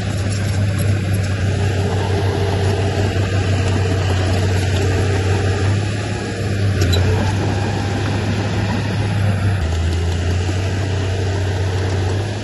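Diesel engine of a heavy earthmoving machine running steadily, a low drone whose note shifts slightly about ten seconds in.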